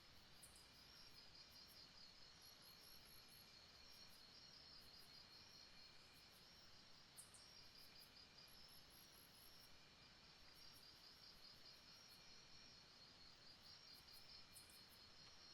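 Faint rainforest insect chorus at night: crickets trilling steadily in a high, fast-pulsing band. A lower chirp comes and goes, and brief very high chirp trains sound twice.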